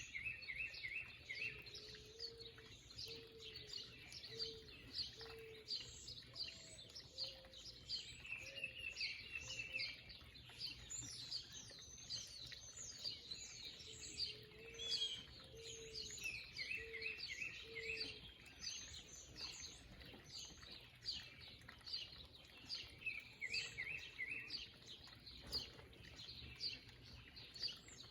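Wild backyard birds chirping and calling throughout. A short rapid phrase repeats about every eight seconds, and twice a slow series of five or six low hooting notes is heard.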